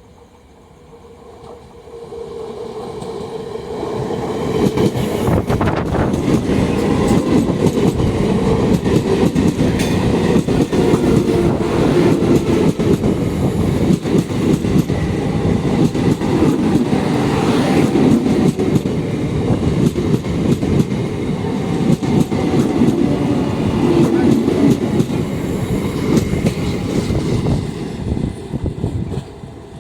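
A train passing close by at speed, its wheels clattering rapidly over the rail joints. It builds up over the first few seconds, stays loud for over twenty seconds, and falls away near the end.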